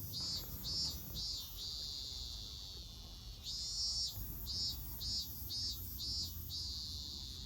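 Insect chirping in short high pulses, about three a second, that twice run together into a longer continuous trill.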